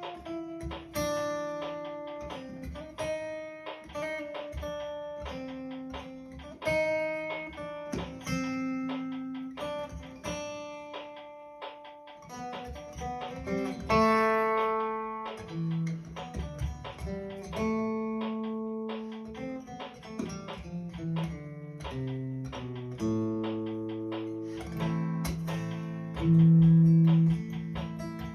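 Guitar playing an instrumental bossa nova passage: plucked chords over a moving bass line, with a louder held bass note near the end.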